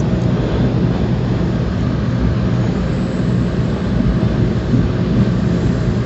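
Tokaido Shinkansen train running, a steady low rumble with no change in level.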